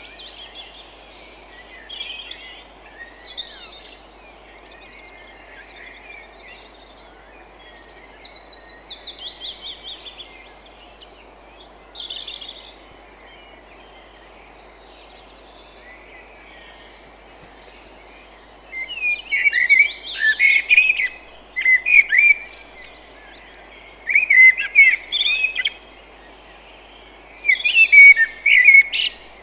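Several wild birds chirping and singing in short, varied phrases. The calls are sparse at first and grow louder and busier in bursts from about two-thirds of the way in, over a steady low hiss.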